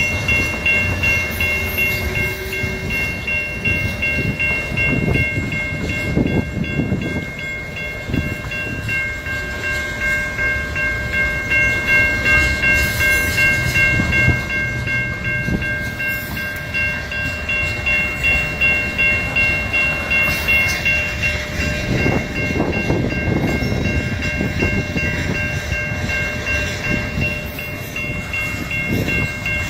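Union Pacific freight cars rolling past: a rumble with a repeating clack of wheels over the rail joints, about one beat a second. A steady high-pitched whine of several tones holds throughout.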